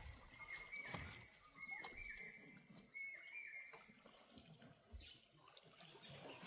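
Faint series of short high-pitched animal calls, about two a second, stopping about three and a half seconds in, with scattered faint clicks.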